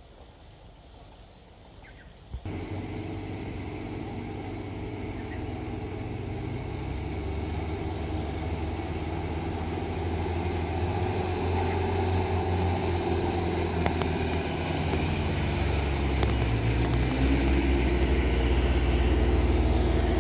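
Heavy truck's diesel engine running under load on a steep climb. It comes in abruptly about two seconds in and grows steadily louder, its pitch rising slightly near the end.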